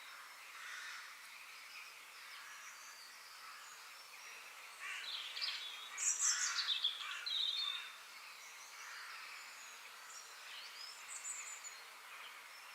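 Wild birds chirping and calling over a steady outdoor hiss, with a louder flurry of calls from about five to eight seconds in.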